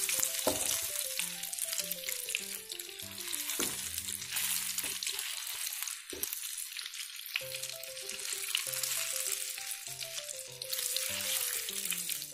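Battered tempe slices frying in hot oil in a non-stick pan: a steady sizzle, with a wooden spatula now and then scraping and tapping the pan as the pieces are moved for turning. Light background music with a simple melody plays underneath and breaks off briefly about six seconds in.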